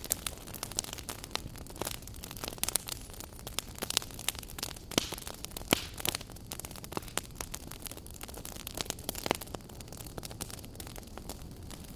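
Wood fire burning in a fireplace, with a steady low rush of flame and frequent irregular crackles and pops.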